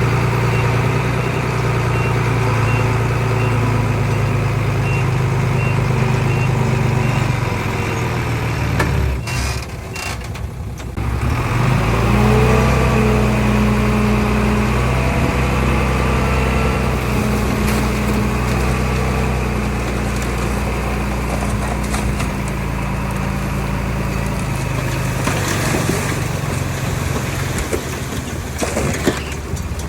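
Heavy diesel engines of a bulldozer and dump trucks running steadily. A reversing alarm beeps at an even pace for roughly the first third. Around ten seconds in, the engine sound dips briefly, then an engine revs up and runs at higher pitch under load.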